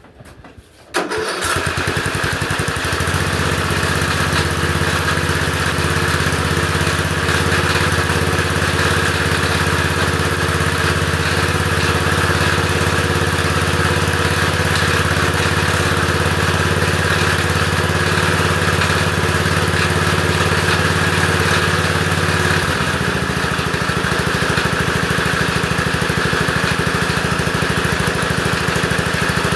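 Lawn tractor engine cold-starting about a second in, then running steadily; its speed changes slightly about two-thirds of the way through.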